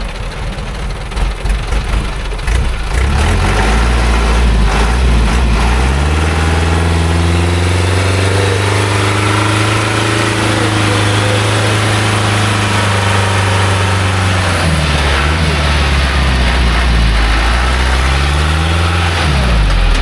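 Engine of a small logging truck loaded with acacia wood, revving hard under load on a muddy climb. It rises in pitch a few seconds in and holds high, eases off about three-quarters of the way through, then revs up again briefly near the end.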